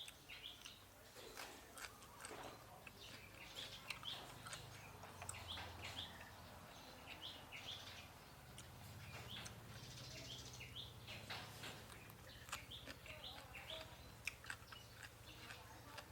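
Small birds chirping repeatedly in short, scattered calls, with faint clicks and a low steady hum underneath.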